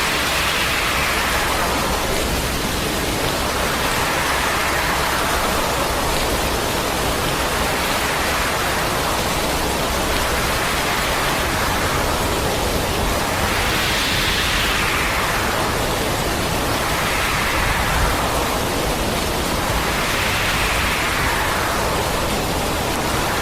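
Heavy rain pouring down: a steady, even hiss that swells and eases every couple of seconds.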